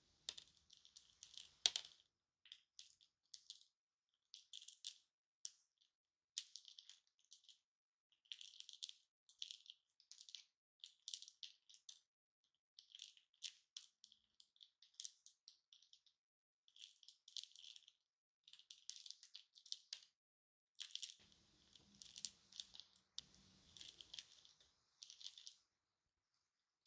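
Shards of broken hard-candy lollipops clicking and rattling against each other as they are handled, in short bursts about once a second.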